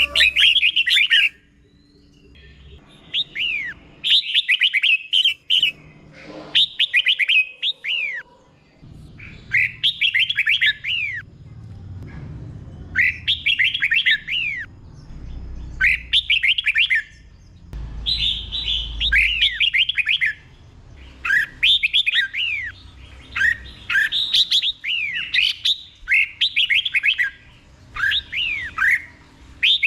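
Red-whiskered bulbul singing: short phrases of quick, clear sweeping whistles, repeated every second or two with brief pauses between them.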